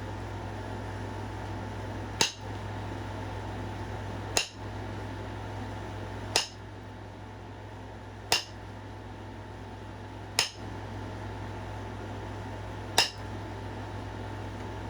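Flintknapping: six sharp clicks, about one every two seconds, as flakes are struck or pressed off a stone point being thinned.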